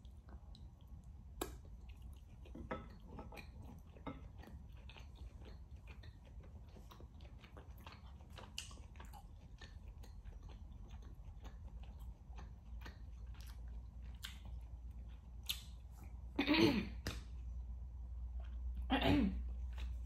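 A person chewing rare beef steak with soft, wet mouth clicks and smacks, and two louder mouth sounds near the end. A steady low hum runs underneath.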